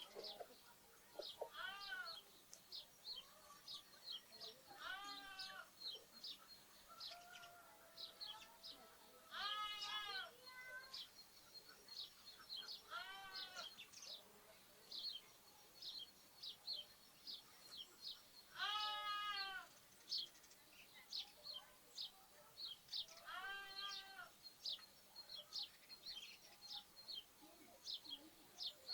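Lambs bleating, about six separate calls a few seconds apart, over continual chirping of sparrows and other small birds.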